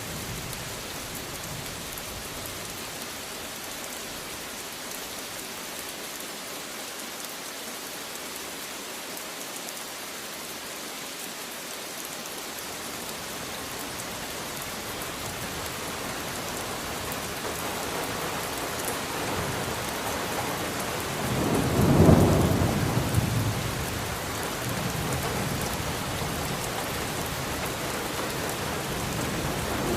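Steady rain hiss that slowly grows heavier, with a roll of thunder that swells about two-thirds of the way through and rumbles on faintly for a few seconds.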